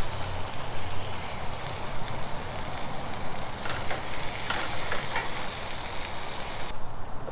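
Food sizzling in a frying pan on a camp stove, with a few light clicks in the middle. The sizzle cuts off abruptly shortly before the end.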